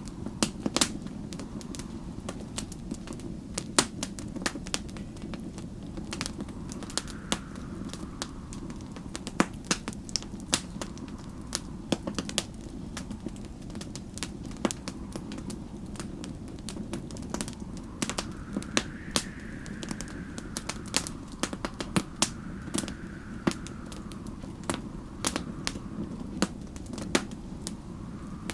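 Wood fire crackling with frequent sharp pops over a steady low rumble of snowstorm wind, which now and then swells into a soft howl that rises and falls.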